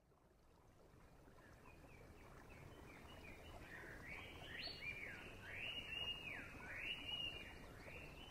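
Outdoor background hiss fading in, with a bird repeating a slurred whistle that swoops up and then down about once a second, growing louder.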